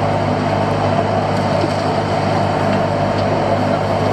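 Fishing boat's engine running steadily, a constant low hum with a wash of noise over it.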